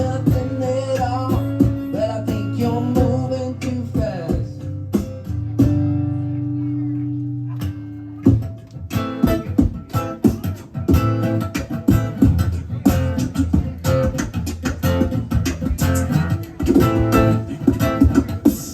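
Live acoustic guitar music without vocals: a chord is left ringing about midway, then fast, rhythmic picking and strumming picks up.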